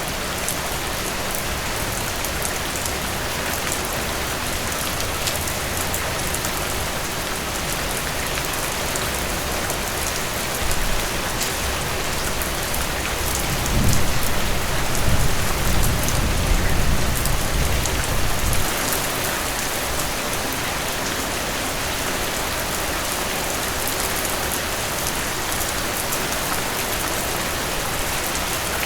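Heavy rain falling steadily, with a low rumble of thunder rolling in about a third of the way through and dying away several seconds later.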